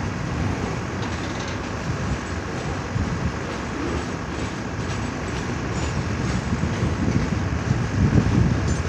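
CN train rolling past with a steady rumble and rattle of its wheels on the rails.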